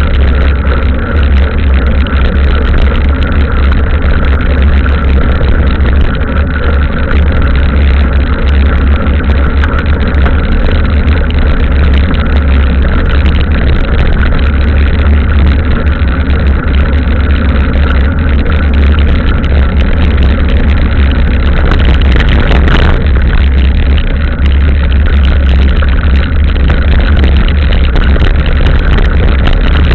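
Steady, loud wind and riding rumble on the microphone of a camera carried on a mountain bike, with a deep buffeting underneath a general hiss of tyres on the wet trail.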